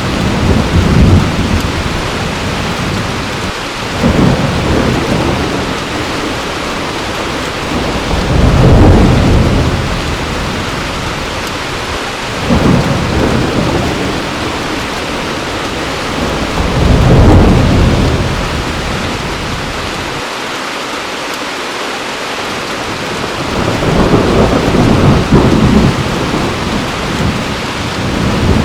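Heavy rain falling steadily, with thunder rumbling in low rolls every few seconds. The two loudest rolls come about a third and about two-thirds of the way through.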